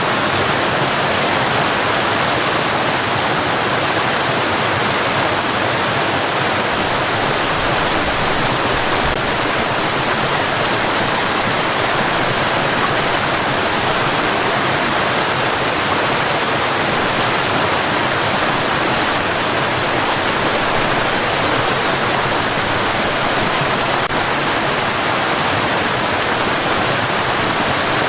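Steady white noise for putting a baby to sleep: an even, unchanging hiss like rushing water, with no rhythm or breaks.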